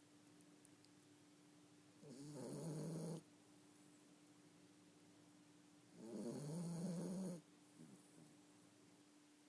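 Yorkshire terrier snoring: two snores, each about a second long, about four seconds apart, with a faint steady hum between them.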